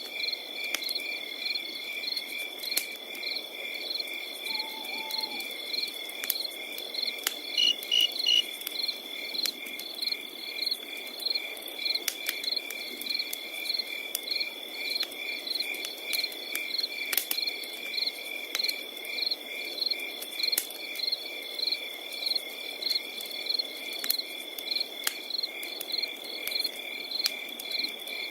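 Crickets chirping in layers: one continuous high trill and others in regular pulsed chirps. A wood fire crackles over a low hiss, with sharp pops scattered throughout.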